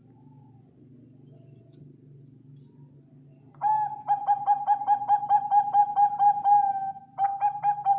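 Bangkok-strain zebra dove (perkutut) singing: after a few seconds of low background hum, a long fast run of cooing notes about four or five a second, then a second run starting near the end.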